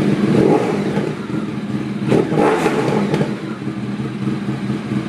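2010 Honda VFR1200's V4 engine running at idle through a Werkes GP slip-on exhaust, a little on the noisy side. About two seconds in there is a short throttle blip with a few sharp crackles. There is a little gurgling, which the owner hopes a Power Commander will cure.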